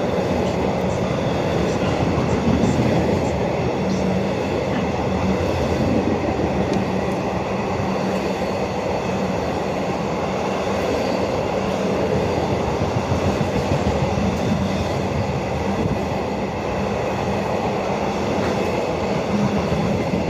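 Long freight train rolling past, its wagons making a steady rumble and rattle of wheels on rails.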